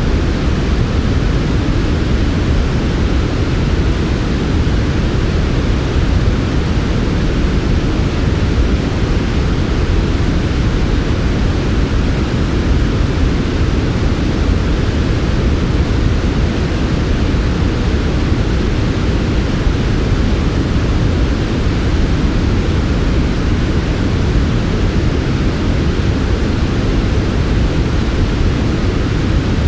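Steady synthetic white-noise track for sleep, an even, unbroken rush weighted toward the deep end with a softer hiss above.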